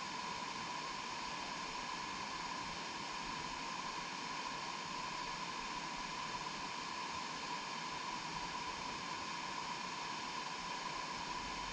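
Steady, even hiss with a faint constant high tone in it.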